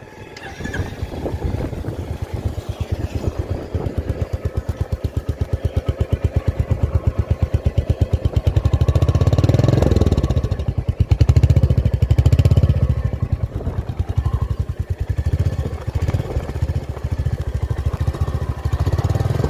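Royal Enfield Meteor 350's single-cylinder engine running, its exhaust silencer giving an even, thumpy beat. The beat gets louder and quicker twice, about nine and twelve seconds in, as the throttle is opened, then settles back.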